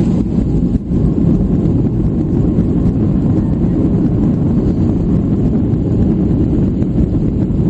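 Steady low rumble of an airliner's jet engines and airflow, heard as cabin noise.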